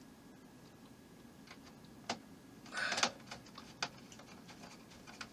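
A few sharp clicks and a brief rustle of small model-kit parts and screws being handled and set in place.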